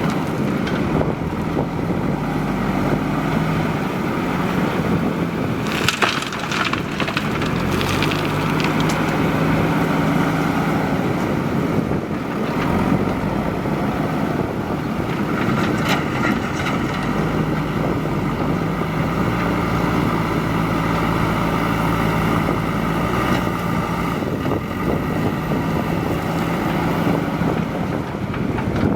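JCB 3DX backhoe loader's diesel engine running under working load, its pitch rising and falling as the machine works. A few short knocks stand out about six, eight and sixteen seconds in.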